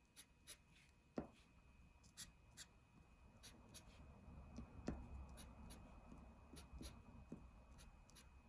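Faint scratches and quick taps of a marker pen drawing short strokes and dots on paper, with a couple of sharper taps about a second in and near five seconds.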